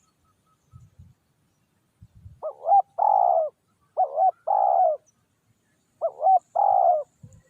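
Spotted dove cooing three times, each phrase a short broken coo followed by a longer drawn-out one.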